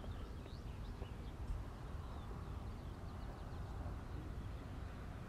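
Small birds chirping faintly, many short high calls scattered throughout, over a low steady background rumble.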